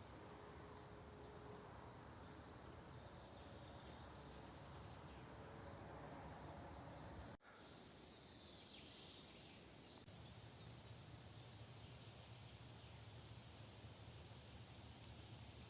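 Near silence: faint, even outdoor background hiss, broken by a brief dropout about halfway through.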